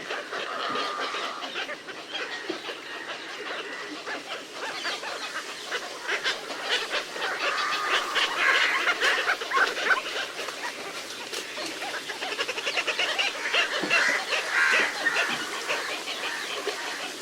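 Little cormorants calling: a dense, continuous chatter of rapid clicking calls, louder around the middle and again near the end.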